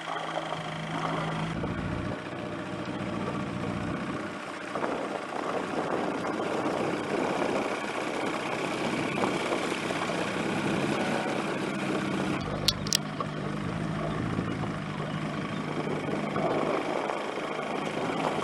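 An engine running steadily under a continuous hiss of noise, with two brief sharp clicks about 13 seconds in.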